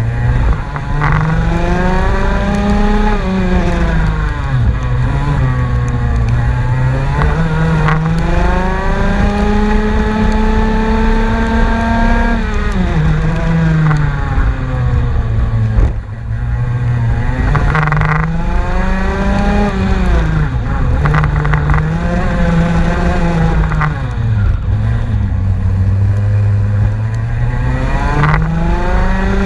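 Race car engine running hard on track: its pitch climbs and falls over and over as the car accelerates, shifts and slows, with several sudden drops in pitch and a brief lift of the throttle about sixteen seconds in.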